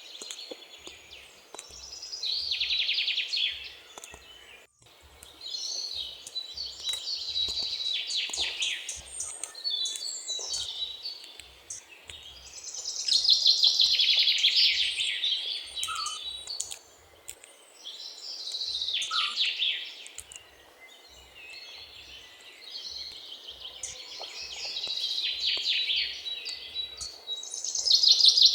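Great tit singing: phrases of rapid, high repeated notes, each lasting one to three seconds, coming again and again after short pauses.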